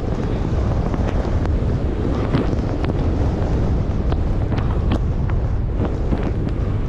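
Blizzard wind buffeting the microphone: a loud, steady low rumble with brief crackles scattered through it.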